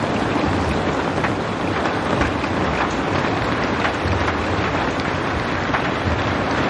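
Steady rain falling, an even hiss with many small drop ticks and a low rumble underneath.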